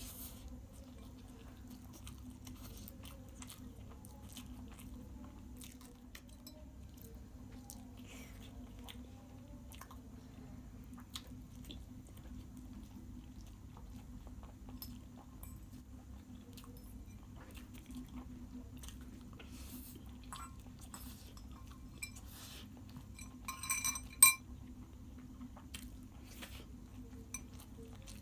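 Close-up eating sounds: chewing and mouth clicks of Maggi noodles being eaten, over a steady low hum. Near the end, a spoon strikes the glass bowl with a loud, ringing clink.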